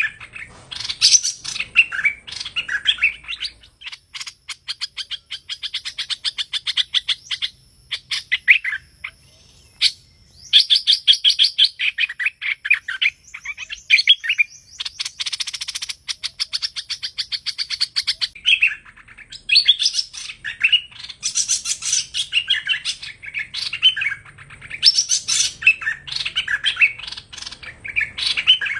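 Hoành hoạch songbird singing: loud chattering phrases and fast trills of sharp, clicky notes, broken by short pauses. This is a lure recording of the kind played to call the bird into a trap.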